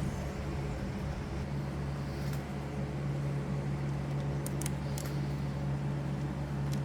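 Steady low mechanical hum in the workspace, with a few light clicks about two-thirds of the way in from small metal parts being handled while a score reel is put back together.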